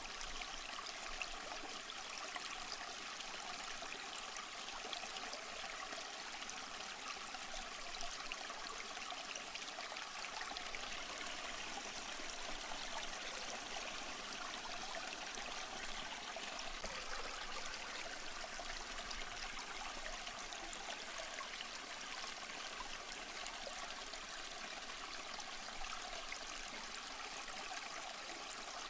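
Small stream flowing over rocks: a steady rush of water with fine trickling and splashing.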